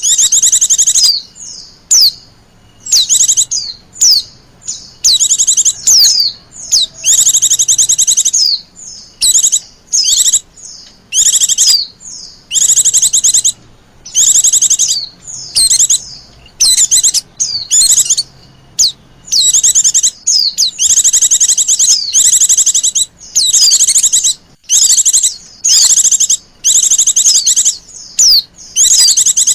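White-eye (pleci) lure call: loud, rapid, high-pitched twittering trills in bursts of up to about two seconds, repeated one after another with short gaps. It is the agitated, noisy chatter used to call wild white-eyes in.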